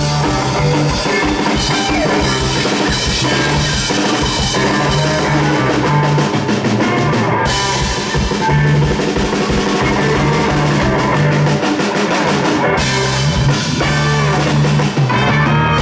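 Live rock band playing an instrumental passage, with drum kit and bass guitar to the fore. The cymbals briefly drop out twice, about halfway and about three quarters in.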